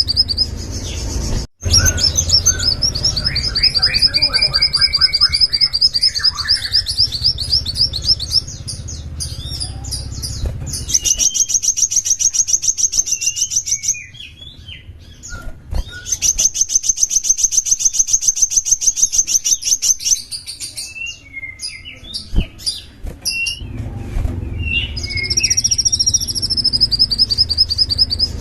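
A small songbird singing fast, high-pitched trills and rapid runs of repeated notes, with short pauses between phrases. A low hum sits under the song in the first ten seconds and again near the end, and the sound drops out briefly about a second and a half in.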